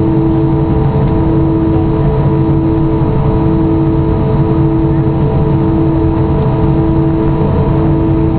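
Steady cabin noise of an Airbus A320 on the ground before takeoff: a constant drone with several steady tones, one of which pulses on and off about once a second.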